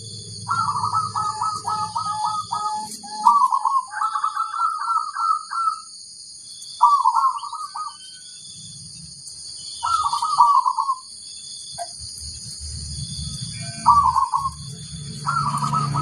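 Zebra dove (perkutut) cooing: a long run of rapid, staccato coos, followed by several shorter cooing phrases with pauses between them.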